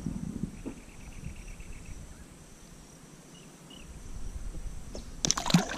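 Steady high insect buzzing, with a short evenly pulsed trill from about half a second to two seconds in. Near the end comes a cluster of sharp clicks and knocks.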